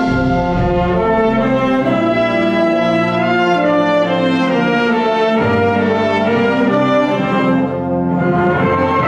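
School wind band playing broad, sustained brass-led chords that change every second or two.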